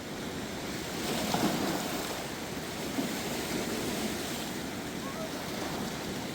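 Steady rush of fast-flowing, rain-swollen river water, swelling briefly about a second in.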